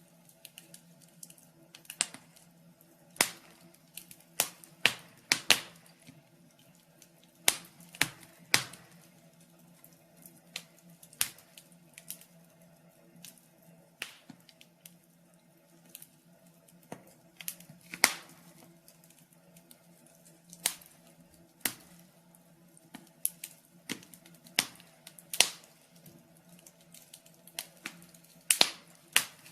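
Wood fire crackling in a fireplace: irregular sharp pops and snaps at uneven intervals, some much louder than the rest, over a faint steady hum.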